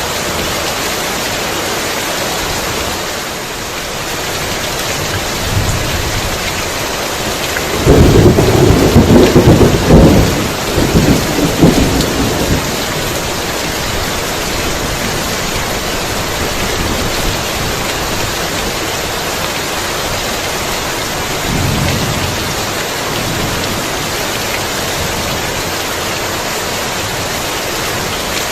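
Heavy rain falling steadily, with a loud crack and rumble of thunder about eight seconds in that lasts several seconds, and a fainter low rumble later on.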